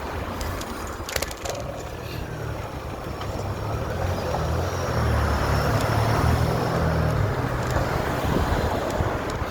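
Road noise heard while cycling: a steady rush of traffic with a low rumble that swells about four seconds in and eases near the end, with a few sharp clicks in the first two seconds.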